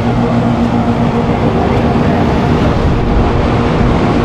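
Central air conditioner outdoor condensing units running: a steady, loud compressor hum with the rush of the condenser fan.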